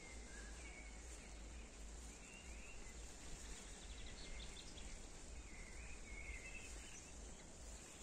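Faint bird chirps, a few short calls scattered through, with a brief rapid trill about four seconds in, over a steady low rumble and hiss.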